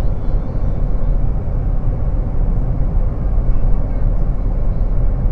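Steady low rumble of a vehicle travelling on a highway, road and wind noise with no change in pitch.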